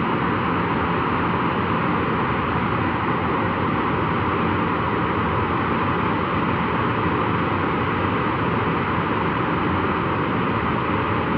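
Boeing 737-400's CFM56-3 turbofan engine running steadily during a ground run: an even rushing noise with a faint low hum underneath, unchanging in level.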